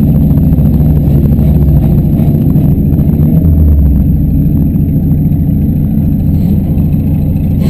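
Demolition derby cars' engines running and revving loudly with a steady low drone.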